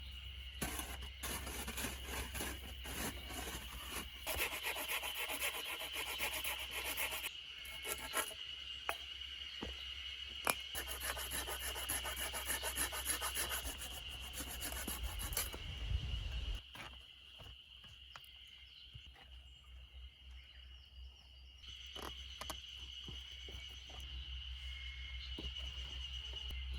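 Rough, repeated scraping and rasping strokes with sharp knocks mixed in, as of hand tools working earth and stone; they stop about two-thirds of the way through.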